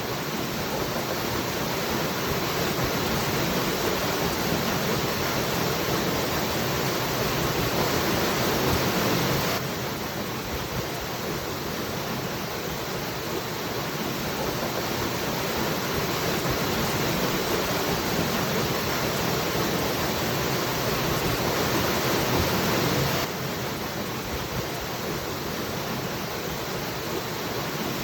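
Waterfall rushing: a steady, dense roar of falling water that slowly swells and then drops abruptly a little in level, twice.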